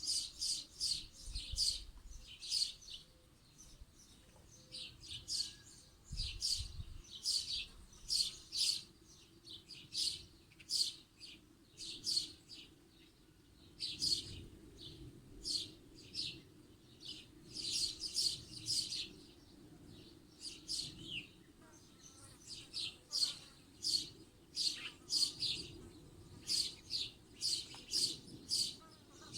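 Small songbirds chirping: quick clusters of short, high chirps, one cluster after another with brief gaps.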